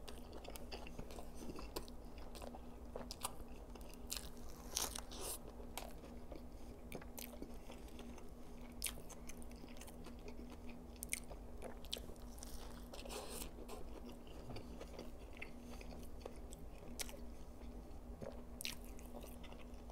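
Close-up chewing and biting of a burger dressed with fresh lettuce: irregular wet mouth smacks and small crunches. A faint steady hum runs underneath.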